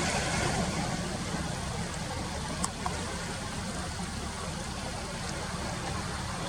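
Steady outdoor ambient noise: a low rumble under an even hiss, with a brief click about two and a half seconds in.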